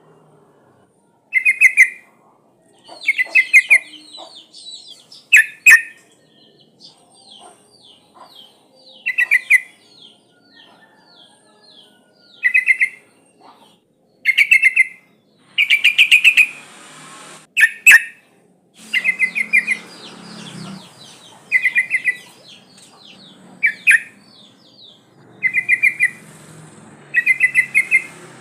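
Yellow-vented bulbul (trucuk) calling: loud, short bubbling bursts of rapid notes repeat every second or two, with softer runs of quick, higher notes between them. The recording is presented as a female calling to males, used as a lure call.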